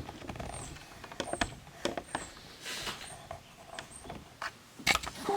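Objects being handled and set down on a table: scattered knocks and clicks with a brief rustle, and several short, faint, high chirps.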